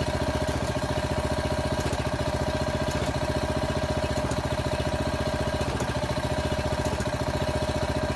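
Small engine of a foundation pier-jacking machine running steadily, with a fast even chug and a steady whine while it lifts a settled brick wall.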